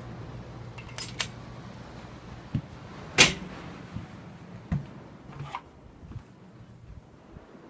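A few scattered knocks and clicks, the loudest about three seconds in, over a low steady hum that fades out near the end.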